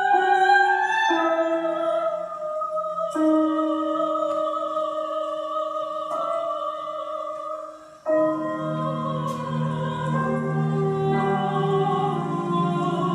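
Operatic soprano singing long held notes with instrumental accompaniment. About eight seconds in, lower sustained notes join underneath.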